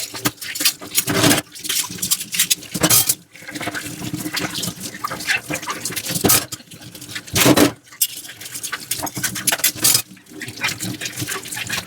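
Dishes being washed with a soft sponge: uneven scrubbing swishes and wet rubbing, with splashing water and occasional short knocks of dishes at the sink.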